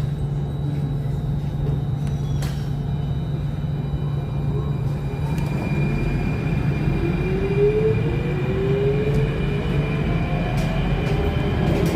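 Alstom Metropolis C830 metro train heard from inside the car, running with a steady low hum; about halfway through, its traction motor whine rises steadily in pitch as the train accelerates away from the station.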